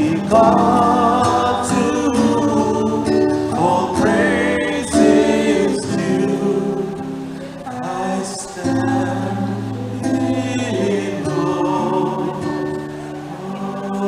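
A choir singing a gospel-style hymn with instrumental accompaniment and a steady bass line.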